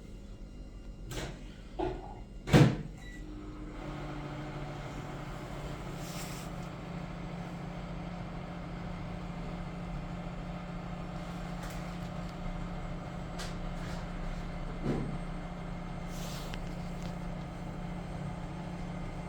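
A few clicks and a loud knock, then an appliance's electric motor starts about four seconds in and runs with a steady low hum.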